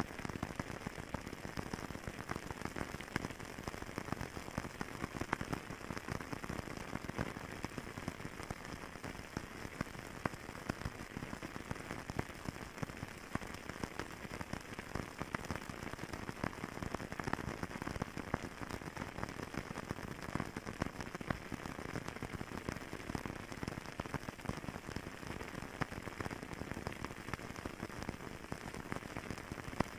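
Wood fire crackling in a fireplace: a steady, dense stream of small pops and snaps.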